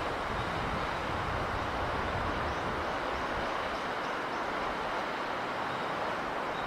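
Steady rushing noise of sea wind and surf, even in level with no distinct wave crashes.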